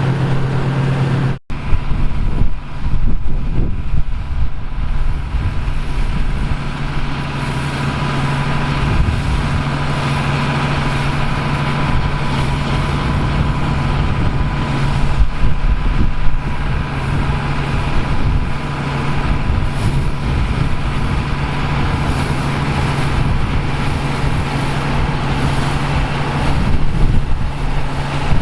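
Diesel engines of vintage farm machinery running steadily under load, with a rough mechanical clatter over the engine note. The sound cuts out abruptly for an instant about a second and a half in, then carries on.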